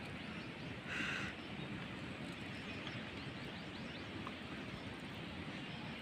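A bird calls once, briefly, about a second in, over steady outdoor background noise, with a few faint chirps after it.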